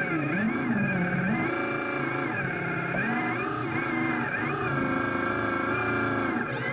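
Radio-controlled construction models running: motors whining and a simulated engine note, several pitches rising and falling with the throttle.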